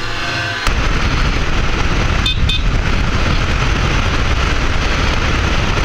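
Wind rush and road noise buffeting the microphone on a moving motorcycle, starting abruptly under a second in. A brief high double beep sounds about two seconds in.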